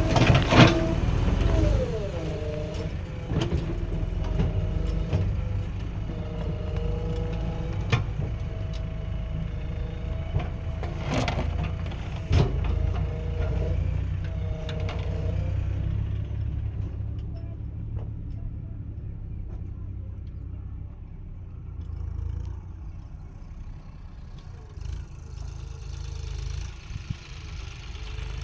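JCB 3DX backhoe loader's diesel engine working under load, with a whining tone that rises and falls and several sharp metallic knocks. The engine note drops and gets quieter in the second half.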